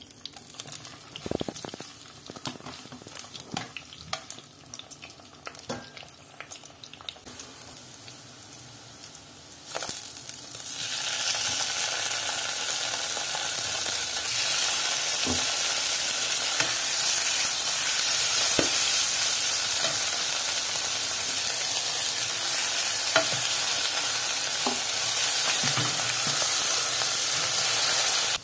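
Tongkol (mackerel tuna) frying in oil in a nonstick pan, with scattered taps and pops. About ten seconds in, a much louder, steady sizzle sets in as spice paste is fried with the fish and stirred with a spatula.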